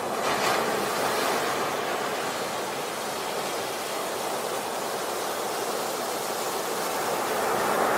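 Sea waves washing onto a beach: a continuous rush of surf that swells about half a second in and again near the end.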